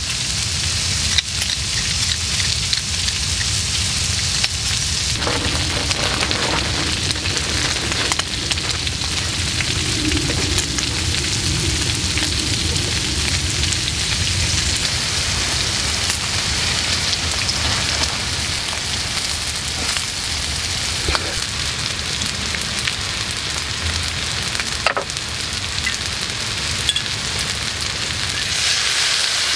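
Yakisoba noodles, cabbage and meat sizzling steadily on a hot metal griddle tray over a gas stove, with a few sharp clicks of the spatula against the pan. Near the end the hiss grows louder as sake is splashed onto the hot tray.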